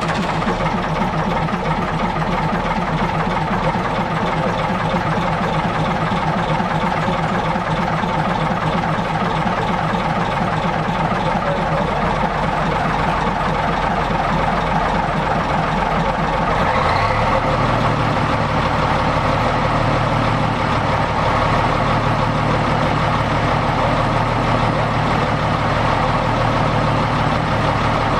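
Heavy diesel engine idling steadily just after starting; about two thirds of the way through its note steps up and it runs faster and a little louder to the end.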